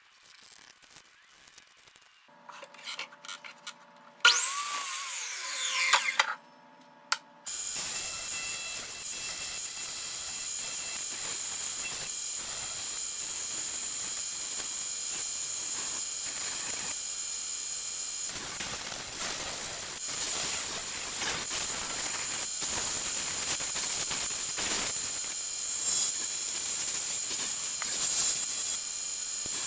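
Power tool running steadily with a constant high whine over a hiss, starting about seven seconds in. Before it starts there are a few short tones and a loud sweeping sound that rises and falls in pitch.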